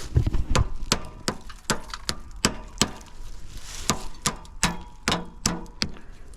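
A steady run of sharp knocks or taps, about two to three a second, with a few heavier thumps at the start.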